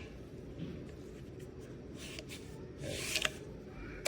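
Plastic handling noise from a LEVOIT stick vacuum's detachable brush head being worked at its latch: rubbing and rustling with a few light clicks about two and three seconds in, the motor off. The latch is not holding the brush in place.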